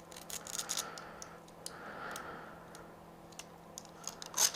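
Scattered small clicks and taps of hands handling a small plastic light-and-alarm unit, with a sharper click near the end, over a faint steady hum.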